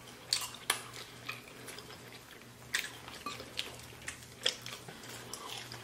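Close-miked chewing and biting of fried chicken wings: scattered crisp crunches and wet mouth clicks at irregular intervals.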